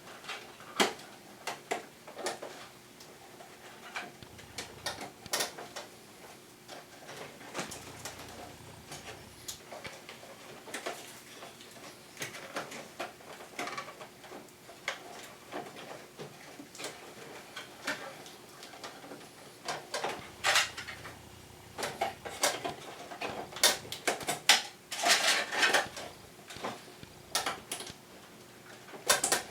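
Irregular clicks and knocks of hard plastic air-conditioner parts being handled and fitted, coming thicker and louder in a run near the end.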